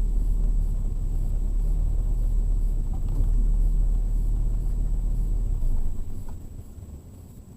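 Low rumble of a car, which falls away sharply about six seconds in.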